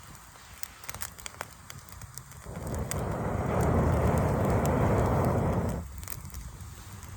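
Campfire crackling, with scattered sharp pops. About two and a half seconds in, a loud rushing noise covers it for about three seconds and then cuts off abruptly.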